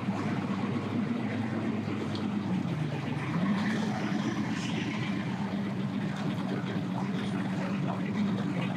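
Boat motor running at low speed, its pitch dipping and then rising again about three seconds in, as the boat is powered onto its trailer.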